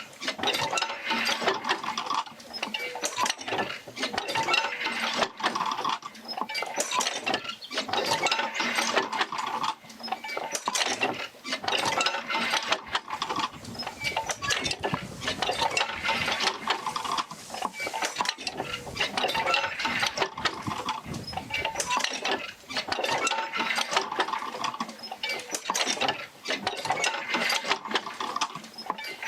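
Oil-field jerker-line field wheel, driven by a Fitzgerald Rig, working its back-and-forth stroke: a continuous mechanical clatter of clanks, knocks and creaks that swells and eases every couple of seconds with the pumping motion.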